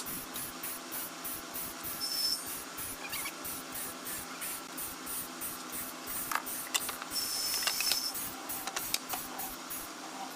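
Rhythmic hissing strokes, about three a second, over a steady low hum, with a brief high whine twice.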